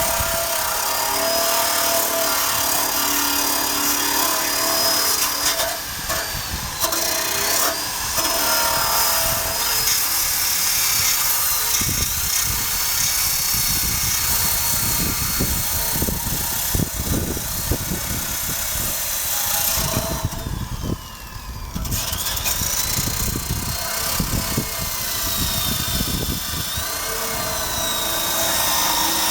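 Power drill spinning a wire brush against the motorcycle's steel frame, its motor whine wavering in pitch as the load and trigger change, over a steady scraping rasp. The drill eases off briefly about two-thirds of the way through, then picks up again.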